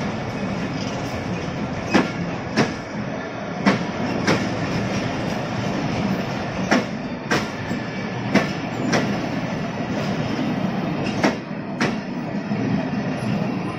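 Bangladesh Railway intercity passenger coaches rolling past at close range, with a steady rumble. The wheels clack over the rail joints in pairs of sharp knocks every second or two.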